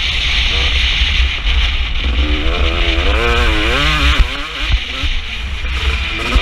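KTM 250 SX two-stroke motocross bike engine revving up and down as it is ridden, its pitch rising and falling, over a constant deep rumble of wind buffeting the microphone.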